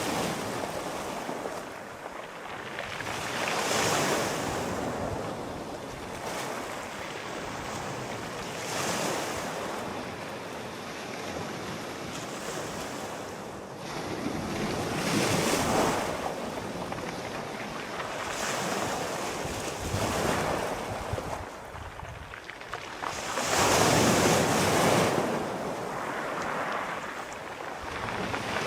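Sea waves breaking and washing on the shore, the surf swelling and falling back every few seconds in an unbroken hiss, louder with the bigger waves about 4, 15 and 24 seconds in.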